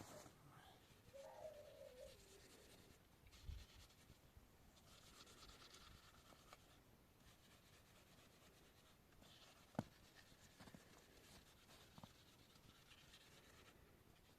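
Near silence: faint scratching and rustling, with a short pitched sound about a second in and one sharp click about ten seconds in.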